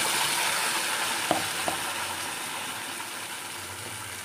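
Wet masala paste sizzling hard in hot oil in a nonstick pan, just after being poured in, with the sizzle slowly dying down. Two short sharp ticks sound a little over a second in.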